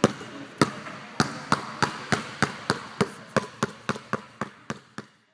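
A basketball bouncing on a hard floor, about fifteen bounces that come quicker and quicker and fainter and fainter until they stop, as a ball does when it settles.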